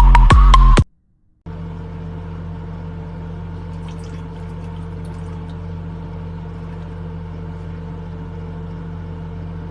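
Electronic dance music with a steady beat cuts off suddenly within the first second. After a half-second gap, a steady low hum starts and runs on unchanged, with a few faint clicks around the middle.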